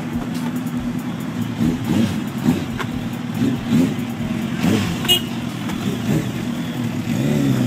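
Motor vehicle engines running steadily, with the revs rising and falling several times.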